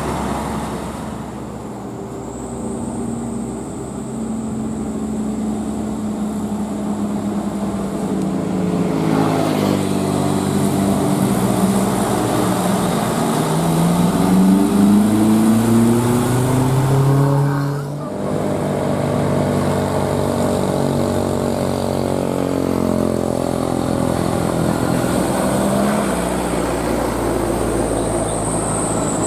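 Heavily loaded truck's diesel engine labouring up a hill. Its pitch climbs for several seconds, breaks off suddenly about eighteen seconds in at a gear change, then runs on steadily.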